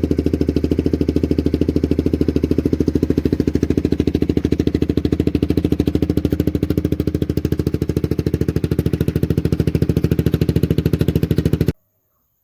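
Suzuki GSX-R125's single-cylinder four-stroke engine idling steadily through an aftermarket R9 exhaust silencer, with an even, rapid exhaust pulse. It cuts off abruptly near the end.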